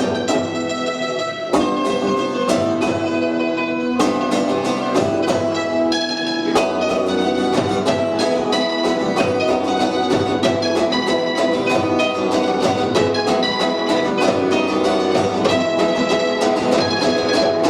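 Live punk band playing a song: guitar chords over a steady drum beat.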